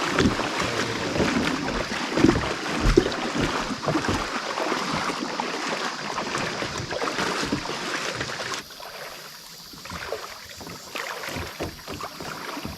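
Creek water splashing and running, with a few low thumps early on and wind buffeting the microphone. The noise drops off suddenly about two-thirds of the way through.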